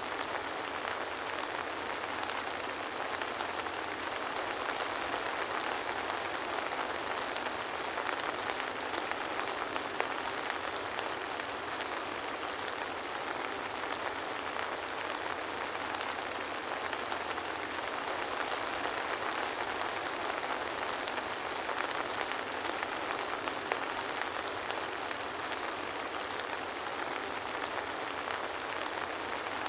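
Soft rain falling steadily, an even hiss of many small drops, with no thunder.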